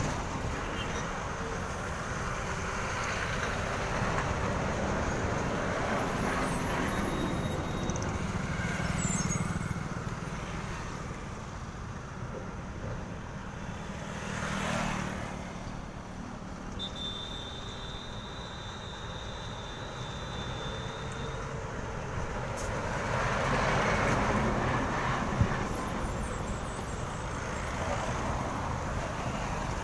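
Road traffic dominated by heavy goods trucks passing, the noise swelling and fading several times as vehicles go by. A thin high steady tone sounds for about four seconds in the middle.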